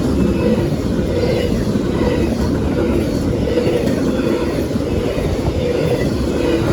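Freight train rolling past with a steady, loud low rumble.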